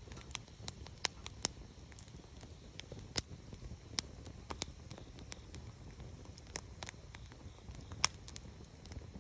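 Campfire crackling: irregular sharp pops and snaps from the burning wood, over a low steady rumble. The loudest snap comes about eight seconds in.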